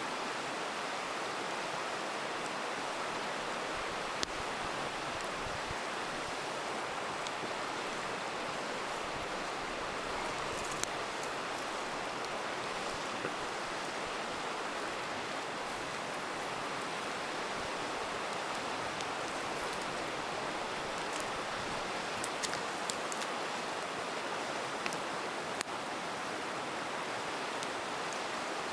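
River flowing steadily with a continuous rushing sound, while a campfire crackles with scattered sharp pops, a few of them close together about three quarters of the way through.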